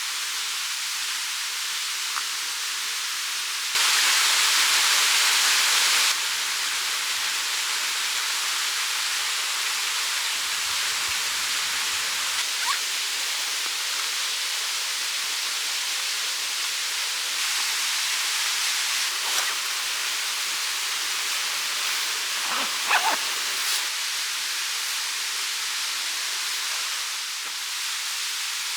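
Mountain stream rushing with a steady hiss of running water, louder for a couple of seconds about four seconds in, with a few faint ticks later on.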